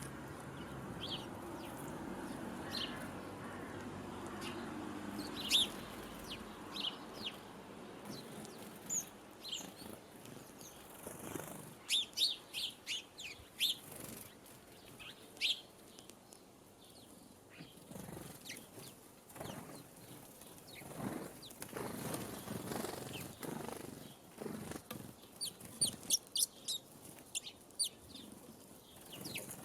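Sparrows at a feeder chirping in short, high notes, scattered at first and then in quick runs about twelve seconds in and again near the end, with wing flutters and rustling among them.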